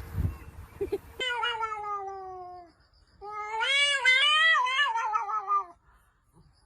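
Cat meowing in two long, drawn-out calls. The first falls in pitch; the second is longer and wavers up and down.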